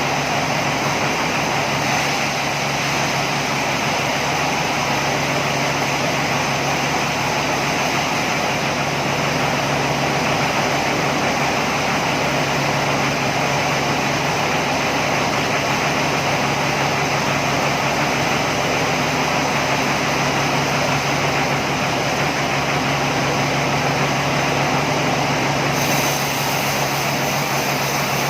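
Sawmill machinery running steadily: a constant low hum under a broad, even whir with no pauses.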